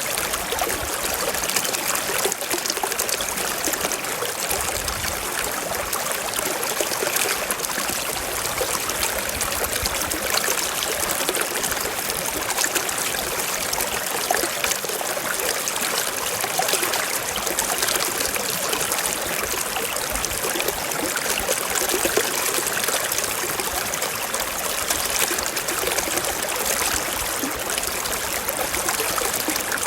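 Shallow stream running over rocks, a steady trickling and babbling of water.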